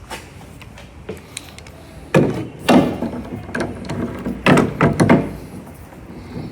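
Metal hand tools clanking and clicking against metal, with a handful of irregular sharp knocks that ring briefly. The loudest come about two seconds in and again near the middle.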